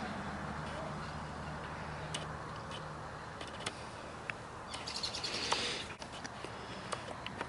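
Birds chirping: scattered short high calls, with a denser burst of twittering about five seconds in.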